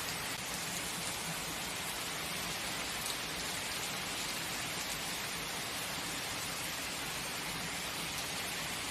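Steady heavy rain falling on a surface, an even hiss with no break or change in level.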